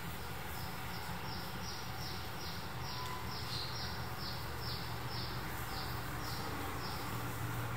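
A bird calling in a quick series of short, high notes that each fall in pitch, about two to three a second, stopping near the end, over a steady low background rumble.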